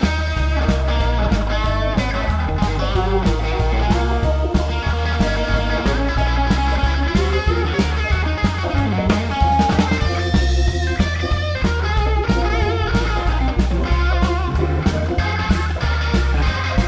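Rock band playing an instrumental break: a guitar takes the lead over bass and drum kit.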